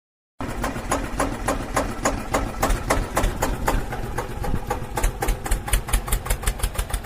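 Small motor of a DIY mini tractor model running, with a rapid, regular knocking that speeds up toward the end. It starts suddenly about half a second in.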